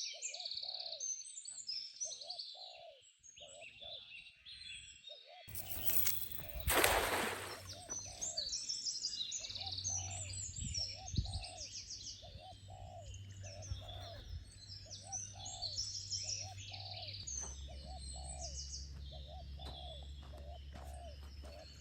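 Birds chirping and singing, with a low cooing call repeated about twice a second throughout. A brief rushing noise about seven seconds in.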